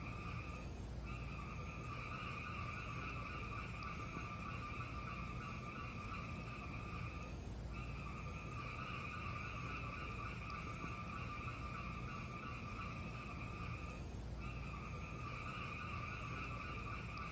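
Fireplace fire burning with a steady rushing hiss that dips briefly twice, about seven seconds apart.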